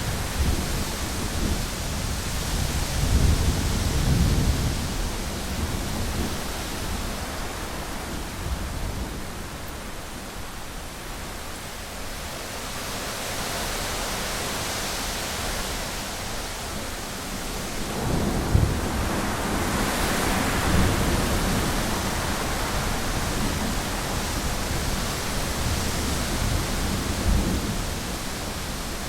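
Heavy rain falling steadily on a window, with thunder rumbling low underneath. The rumble swells in the first few seconds, dies down through the middle, and rolls in again a little past the middle.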